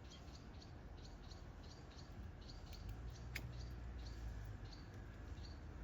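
A small bird calling steadily with short, high chirps, about three a second. There is a single sharp click partway through and a low rumble in the background around the middle.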